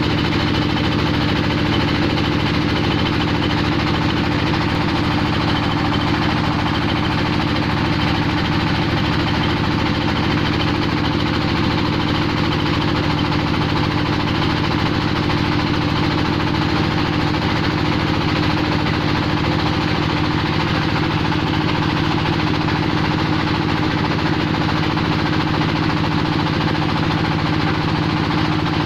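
Engine-driven clay-processing machine for roof-tile making running steadily at a constant speed, with a loud, even drone.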